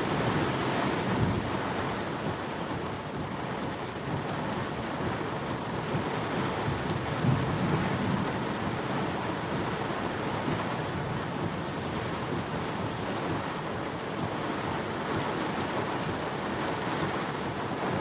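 Heavy monsoon rain and gusting wind beating on a car, heard from inside as a steady rushing hiss, with a low rumble about seven seconds in.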